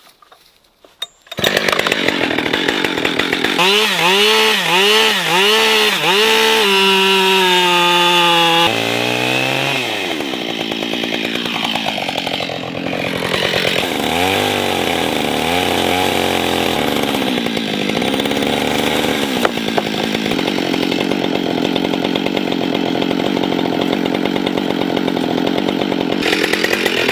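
Chainsaw starts up about a second and a half in and runs loudly. It is revved up and down in quick swings, then its pitch drops and wavers as it cuts into a block of wood being carved.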